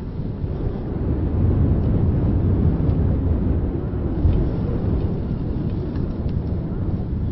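Wind buffeting the microphone of a handheld ZOOM Q3 recorder on a moving bicycle: a steady low rumble that swells a little about a second in.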